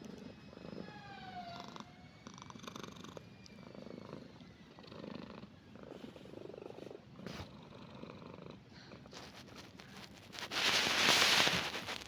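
Himalayan cat purring steadily, the purr swelling and fading about once a second with its breathing. About ten and a half seconds in, a loud burst of rustling noise covers it.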